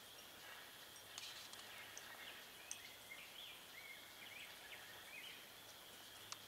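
Near silence: faint outdoor ambience with distant birds chirping now and then over a thin, steady high tone.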